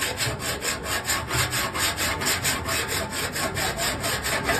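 Quick back-and-forth abrasive strokes on a car body panel, about five a second, as in hand sanding or filing during body repair.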